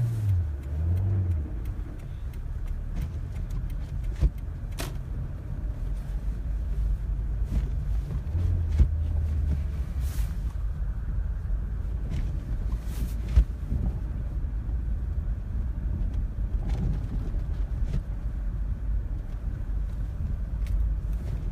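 Car cabin noise while driving on a snow-covered, slippery road: a steady low rumble of engine and tyres, with a few scattered clicks and knocks.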